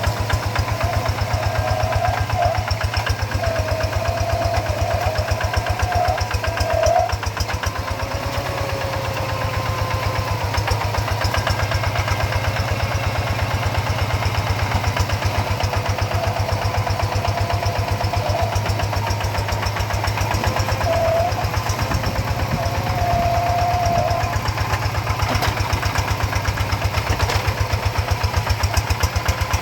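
Rice-field tractor's engine running steadily with a rapid, even firing beat. A wavering higher tone rides over it for a few seconds at a time, twice.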